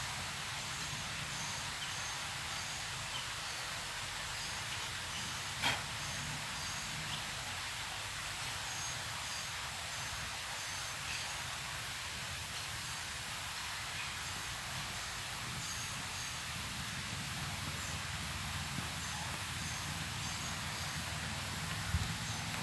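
Outdoor ambience: a steady hiss and low rumble with a faint, high-pitched chirp repeating about once or twice a second, and one sharp click about six seconds in.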